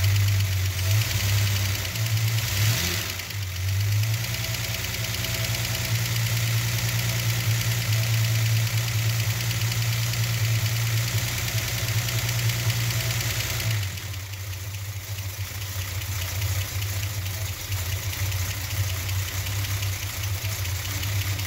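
Chrysler slant six inline-six engine idling soon after a cold start, its oil still cold and thick, with the rocker arms running exposed under a cut-open valve cover. The engine note is fuller for several seconds, then steps down about 14 seconds in.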